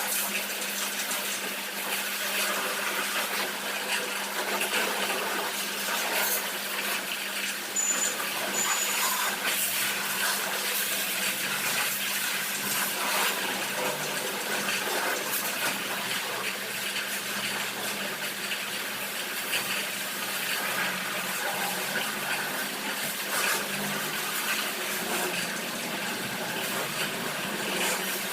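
Steady hiss of water spraying at a car wash, over the constant hum of a pump motor running.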